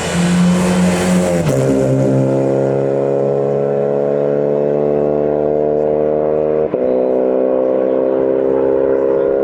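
Race car engine running at steady revs; its pitch drops once about a second and a half in, then holds level.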